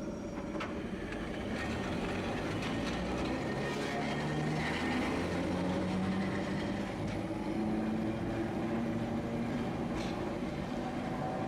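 Tosaden streetcar running on its tracks: a steady rolling rumble with a motor hum that rises and falls in pitch as the speed changes.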